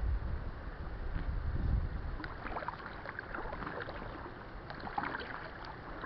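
Kayak paddle dipping and splashing in the water, with scattered drips and splashes from about two seconds in, over a low rumble in the first two seconds.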